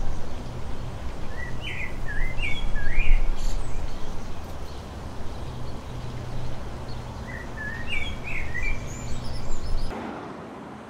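Birds chirping in two short runs of quick rising and falling notes, over a steady low hum and hiss. The background drops away abruptly near the end.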